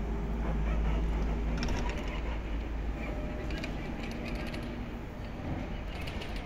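E231-series electric commuter train standing at the platform, a steady low rumble and hum that eases off after about three seconds, with short clusters of clicking about two seconds apart.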